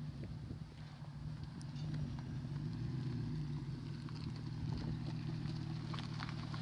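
BMW E60 545i's 4.4-litre V8 running on a modified exhaust, a steady low rumble that gets a little louder about two seconds in.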